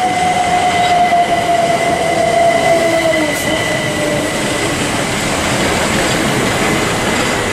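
A Southeastern Class 375 Electrostar electric multiple unit moving along the track, its traction motors whining over the steady rumble of the train. The main whine drops slightly in pitch over the first few seconds.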